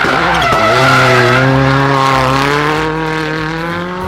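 A racing car engine running at high revs. Its pitch dips briefly about half a second in, then holds nearly steady as it slowly fades a little.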